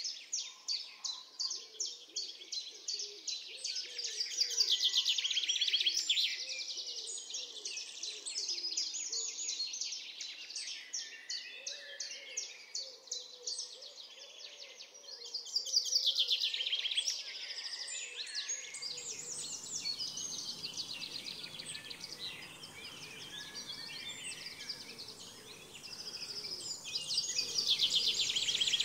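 Songbirds singing: fast trills and chirps that swell and fade in waves. About two-thirds of the way through, a low steady background hiss joins them.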